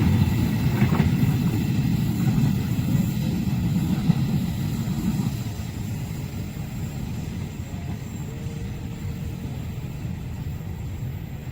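Train running past a level crossing, a loud low rumble that dies away steadily over the second half as it moves off.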